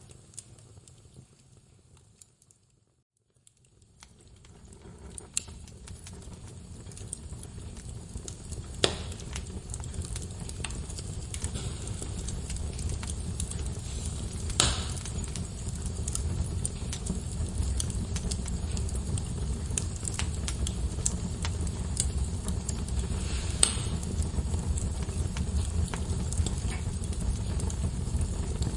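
Log fire crackling in a fireplace: many small crackles and three louder sharp pops over a low steady rumble. The sound fades away to near silence about two seconds in and fades back up over the next several seconds.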